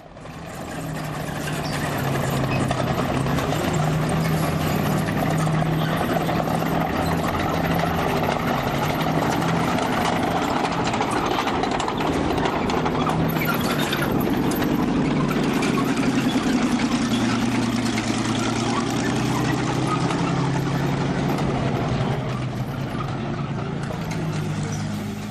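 Simulated tank engine sound from a Tamiya DMD sound unit, played through the RC tank's speaker. It is a low engine drone that shifts in pitch several times, with a rattly mechanical noise underneath. It fades in over the first couple of seconds.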